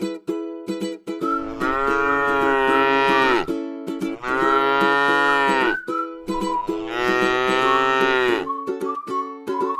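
Cow mooing three times, each a long call of about two seconds that drops in pitch at the end, over background ukulele music.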